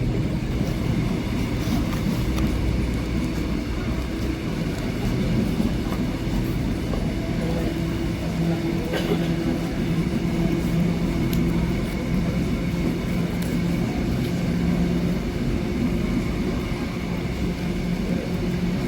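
Railway carriage rolling along the track, heard from inside: a steady rumble of wheels on rails, with a single sharp clack about nine seconds in.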